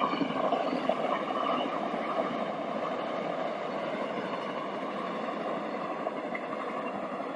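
Passenger train carriages running past on the track: a steady rumble of wheels on rails.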